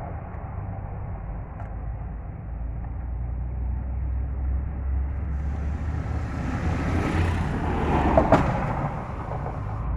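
Low, steady rumble of a motor vehicle's engine running, swelling a little near the end, with one sharp click about eight seconds in.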